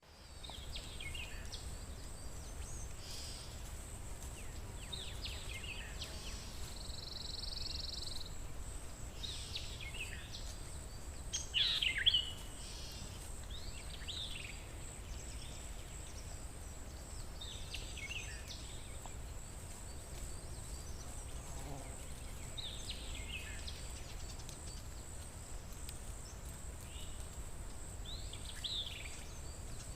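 Forest ambience: songbirds give short chirps and calls every few seconds, the loudest about twelve seconds in, over a steady high insect drone and a low rumble.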